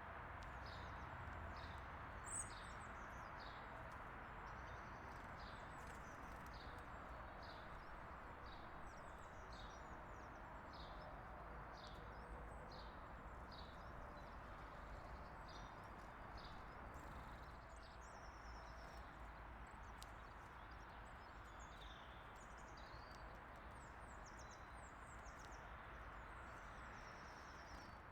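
Small songbirds chirping, many short calls one after another, over a faint steady outdoor background hiss. One call a little over two seconds in is louder than the rest.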